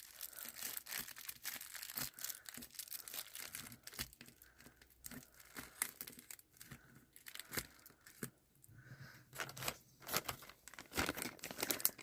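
Thin plastic bags crinkling and crackling irregularly as they are crumpled and packed into a plastic bottle to make an eco-brick.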